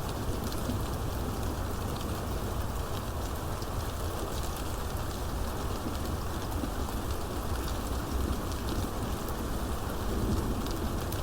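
Steady rain falling, with scattered individual drops ticking through the steady wash.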